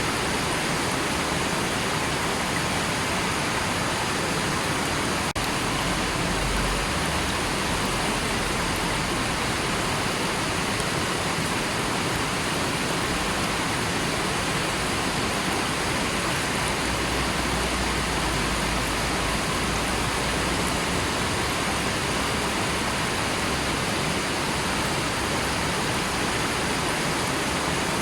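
River water rushing steadily, a dense, even noise with no pauses, apart from a momentary dip about five seconds in.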